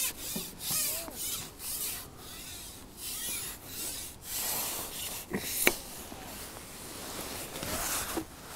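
Fishing tackle being handled and rubbed, scraping and rustling: a quick run of short rasping strokes at first, then a softer hiss with one sharp click about halfway through.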